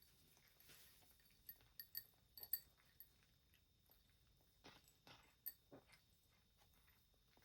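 Cats eating dry food: faint, scattered crunches and clicks, in one cluster about two seconds in and another about five seconds in.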